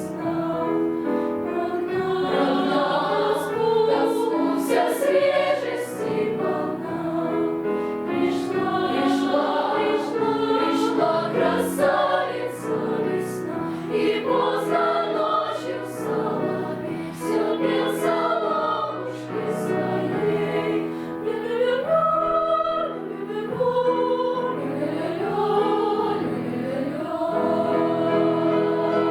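Children's choir singing a song together, with several voice parts moving in pitch.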